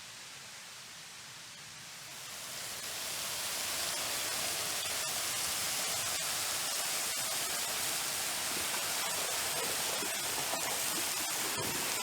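Yahoo Falls, a tall waterfall of small volume plunging into a pool: a steady rush of falling water that grows louder between about two and four seconds in, then holds, echoing off the rock walls.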